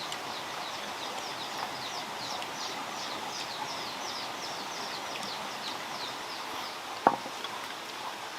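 A bird singing a long series of quick, high, downward-slurred notes, about three or four a second, over a steady background hiss. A single sharp knock comes near the end.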